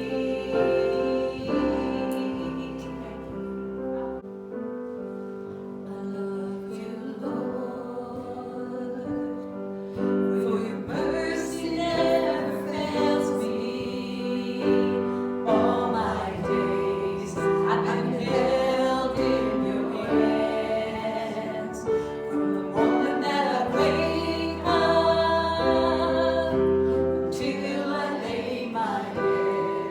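Congregational hymn singing with piano or keyboard accompaniment, voices holding long notes over steady chords.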